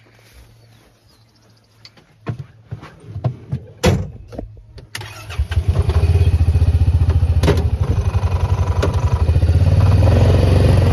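A few clunks and knocks, then a tractor engine starts about five seconds in and runs loud and steady with a fast, even pulse.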